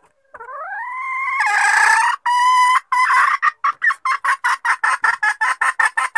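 Junglefowl hen's lure call: a note that rises in pitch into a long held note, then a fast run of short, evenly repeated clucks at about four to five a second that ends abruptly.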